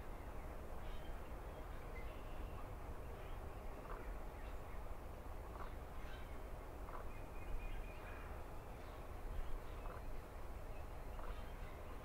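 Scattered faint bird calls over a steady low outdoor rumble.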